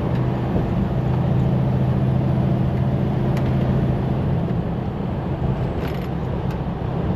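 Semi-truck running at highway speed: a steady low engine drone with road and tyre noise.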